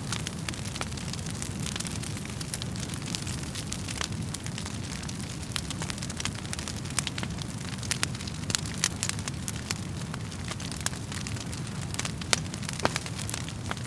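Wood fire crackling, with sharp pops at irregular moments over a steady low rumble of the flames.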